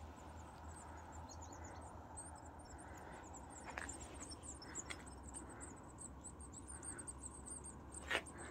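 Faint high-pitched chirping of small birds, many short quick calls, with a few sharp clicks about four, five and eight seconds in.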